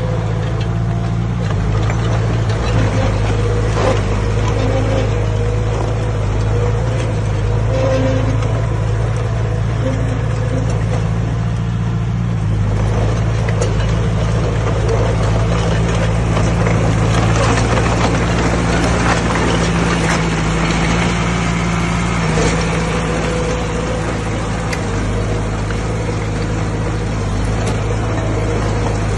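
Heavy diesel engine of earthmoving machinery, a bulldozer or dump truck, running steadily under work, with occasional knocks. The engine note shifts slightly about halfway through and again near the end.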